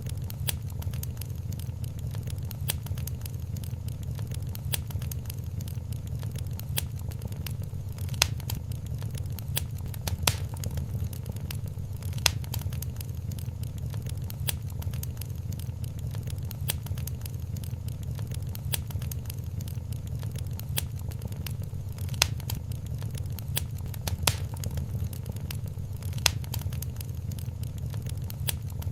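Wood fire crackling in a fireplace. A steady low rumble runs under a dense scatter of small crackles, with a sharper pop every couple of seconds.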